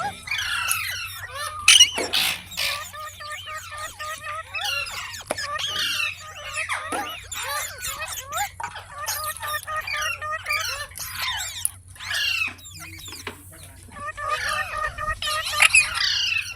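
Parrots calling: a busy stream of overlapping chirps and sharp, sweeping squawks, with a short note repeated over and over underneath.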